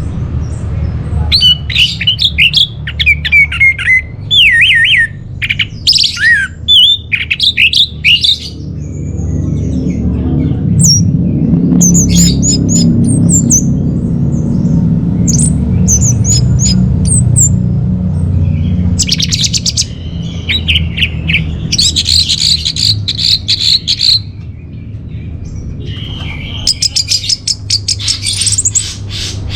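Orange-headed thrush singing: quick, varied phrases of high whistles and chattering notes, broken by short pauses. A low background rumble grows louder in the middle.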